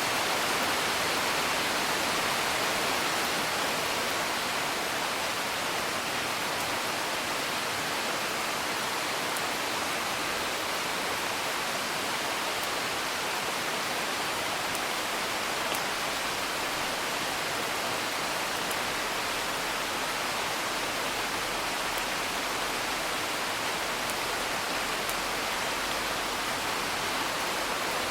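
Steady rain hiss, heard as from indoors, with a few faint crackles of a wood fire now and then.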